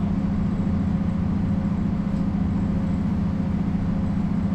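Mercedes-Benz O405 bus's diesel engine running at a steady, unchanging pitch, heard from inside the bus.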